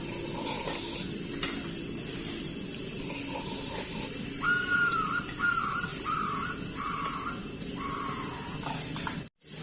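Steady, high-pitched chorus of night crickets and other insects. Midway comes a run of about five short repeated calls from another animal, and the sound cuts out briefly near the end.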